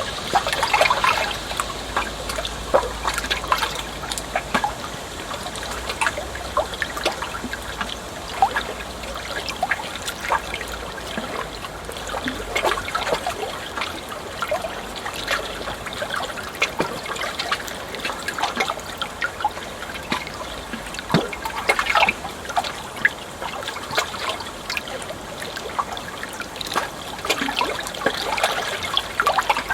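Water trickling and splashing in a continuous stream of small splashes and gurgles, with no pauses.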